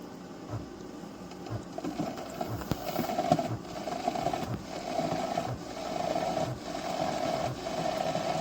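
Single-serve coffee maker's water pump starting up about two seconds in and running in steady pulses about once a second as it brews an 8-ounce cup.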